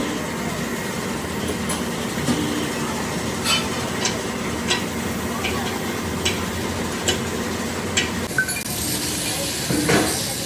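Factory-floor noise: steady machinery hum with light metallic clinks about once a second, then a hiss of escaping air or steam starting near the end.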